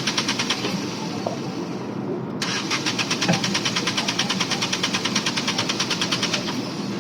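Mahindra KUV100's three-cylinder engine running with the connector of injector no. 2 unplugged, over a rapid, even ticking. The engine stumbles toward stalling, which shows that this injector is working. About two and a half seconds in, the ticking comes back abruptly, and it stops near the end.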